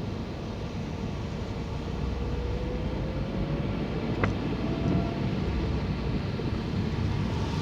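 Car driving on a road, heard from inside the cabin: steady engine and tyre noise, with a faint engine tone rising slowly in pitch as the car picks up speed. A single sharp click comes about four seconds in.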